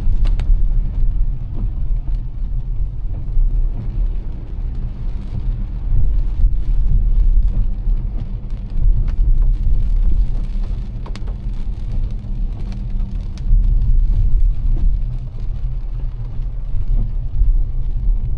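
Car driving in heavy rain, heard from inside: a steady low rumble of tyres and engine that swells and eases, with scattered faint ticks of rain on the car.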